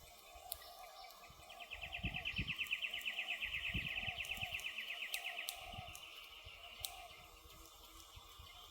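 Campfire crackling with occasional sharp pops, under a high, rapid trill that starts about a second and a half in, lasts about four seconds and fades away.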